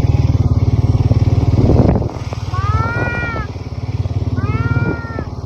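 A small off-road vehicle engine running steadily, with cattle bawling twice over it, each call rising then falling in pitch.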